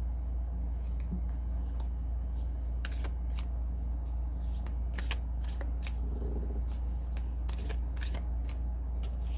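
A deck of cards being shuffled by hand: irregular short, crisp flicks and snaps, coming thicker toward the end, over a steady low hum.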